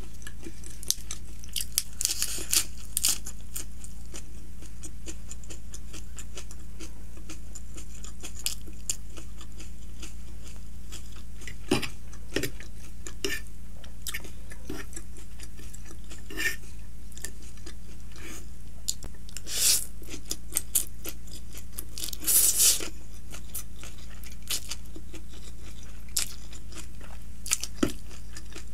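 Close-miked eating: chewing and crunching of lettuce and stir-fried chowmein noodles, with many short wet mouth clicks and a few louder bursts about two-thirds of the way in. A steady low hum lies underneath.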